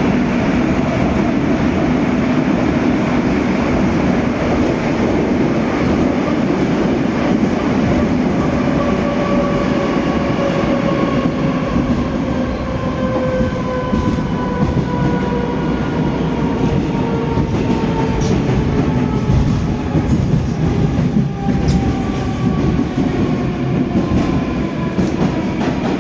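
Moscow Metro 81-740/741 Rusich train running at speed, with a steady rumble and wheel clatter. From about a third of the way in, the traction motors' whine falls slowly in pitch as the train slows for the next station.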